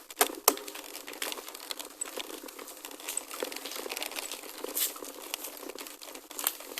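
Gravel bike tyres rolling over a loose gravel forest road: a steady crunching crackle full of small clicks, with a couple of sharp knocks in the first half-second and another near the end as the bike hits stones.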